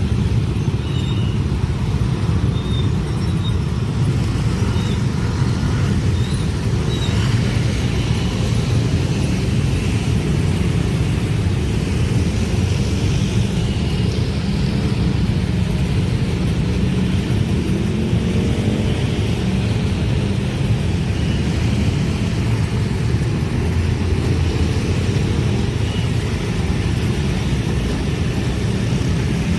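A train passing close by: a steady, loud rumble of wheels on rail that holds for the whole stretch.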